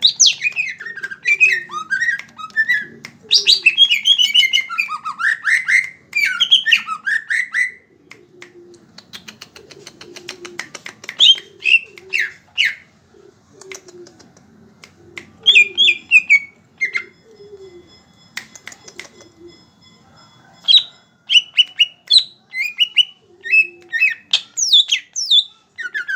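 Cucak ijo (green leafbird) singing in full song: loud bursts of rapid, chattering whistled phrases that sweep sharply up and down in pitch, with short pauses between bursts. These are the "tembakan" (shots) that keepers prize in a bird in top singing form. A quick run of ticking notes sits about a third of the way through.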